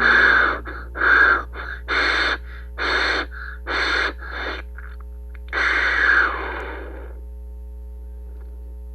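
Breathy, hissing bursts, about one a second, over a steady low electronic drone with several held tones. The bursts stop about seven seconds in, and the drone holds on alone.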